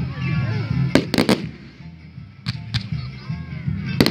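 Aerial firework shells bursting: a quick cluster of sharp bangs about a second in, two single bangs in the middle, and another cluster of bangs at the end.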